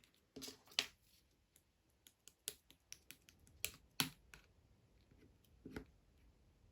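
Pink strawberry-yogurt slime being handled, giving a scattered series of sharp clicks and pops about a dozen times, with a few louder pops near the start and the middle.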